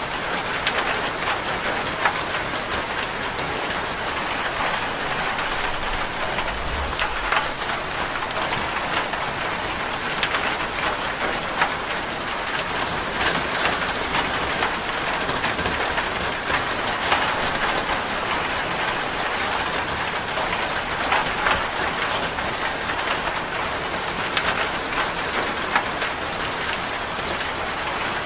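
Steady rain falling, an even hiss, with scattered sharp ticks of drops throughout.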